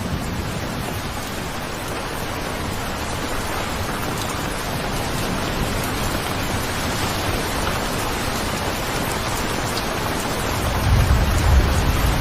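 Steady heavy rain falling, an even hiss of drops. A low rumble swells in near the end.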